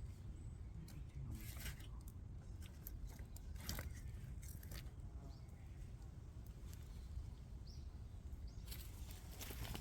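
Small wood fire crackling, with scattered sharp pops and clicks over a low steady rumble; the clicks come thicker near the end.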